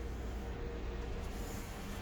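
Steady low rumble and hum of an idling vehicle engine, with a faint constant tone.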